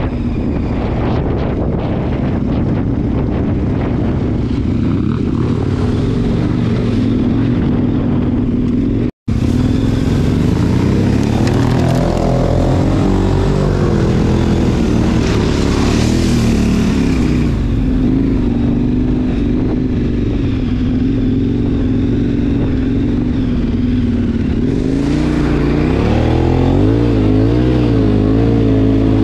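KTM 1090 Adventure's V-twin engine running as the bike rides over a gravel riverbed, with wind noise on the camera. After a sudden cut about nine seconds in, the engine rises and falls in pitch with the throttle as the bike wades through a shallow river, with water splashing against it.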